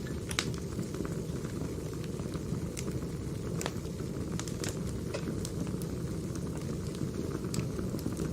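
Firewood burning: a steady low rush of flames with sharp, irregular crackles and pops scattered through it.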